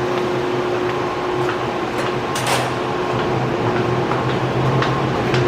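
A steady low machine hum, like ventilation or air-conditioning plant, with a few light clicks; one sharper click comes about two and a half seconds in.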